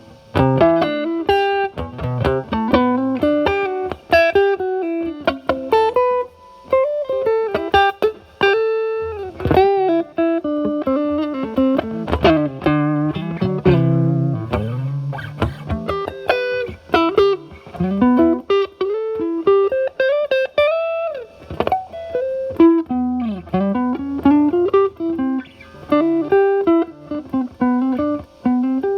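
Fender Stratocaster with single-coil pickups played through a Paul Cochrane Timmy overdrive at about gain 9 into a Marshall Valvestate amp's drive channel: overdriven single-note lead lines with string bends and short pauses between phrases.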